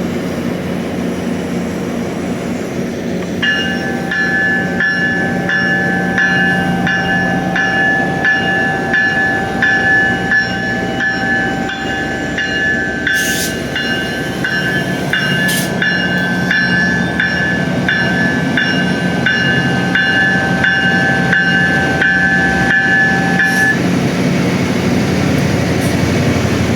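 A departing diesel GO commuter train's engine running with a steady low drone, while a warning bell rings in evenly repeated strokes for about twenty seconds and then stops, about four seconds before the end.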